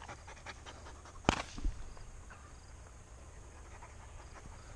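A dog panting, fading out within the first half second, then a single sharp knock a little over a second in, with a softer thud just after it.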